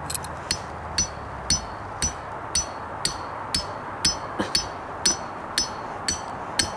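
Repeated strikes driving a metal trap stake into frozen ground, about two a second, each with a short metallic ring.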